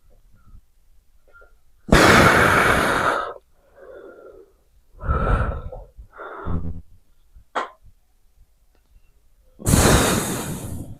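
Heavy breathing of a person straining through dumbbell curls: two long, loud, forceful breaths out about eight seconds apart, with shorter breaths and a short voiced grunt between them.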